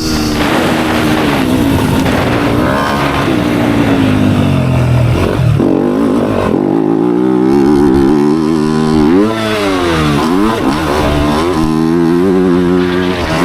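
Dirt bike engine running hard on a track, its pitch rising and falling with throttle and gear changes, with several quick drops and climbs in revs about two-thirds of the way through.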